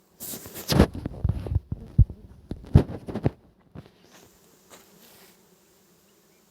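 Honeybees buzzing as a faint steady hum, with loud irregular thumps and rustling close to the microphone for the first three seconds or so.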